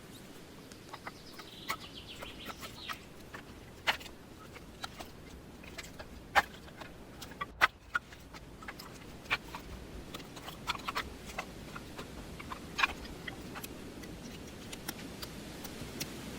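Irregular sharp clicks and small knocks, scattered unevenly, with a few louder snaps about six and seven and a half seconds in, over a faint steady background.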